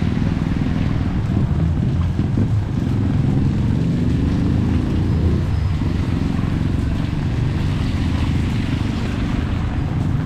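A motor vehicle's engine running close by, its low note shifting in pitch, over a steady hiss.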